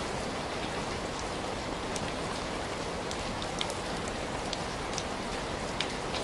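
Steady rain falling, an even hiss with scattered sharp ticks of single drops or crackles.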